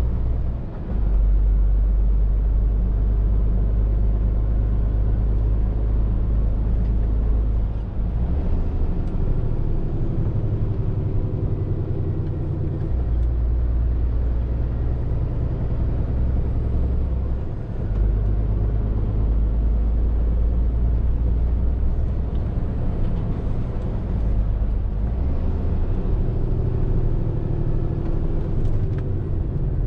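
Scania R450 lorry's 13-litre six-cylinder diesel engine running under way with road noise, a steady deep drone that shifts pitch a few times and dips briefly about a second in and again about eighteen seconds in.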